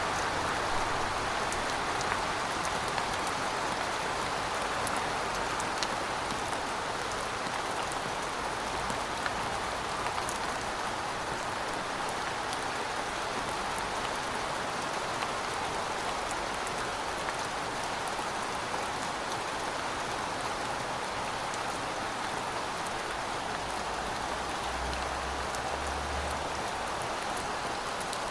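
Heavy rain falling steadily: a dense, even hiss with scattered ticks of single drops.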